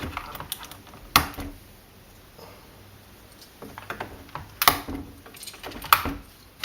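Plastic keycaps being pried off a computer keyboard with a Phillips screwdriver, each popping free with a sharp click. There are three loud clicks, one about a second in and two in the second half, with fainter clicks between.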